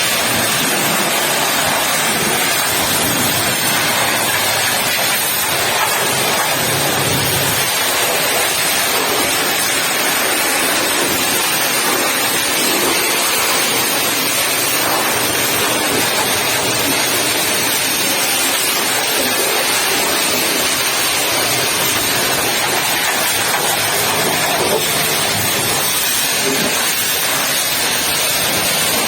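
Pressure washer's high-pressure water jet blasting a muddy truck: a steady hiss of spray without a break.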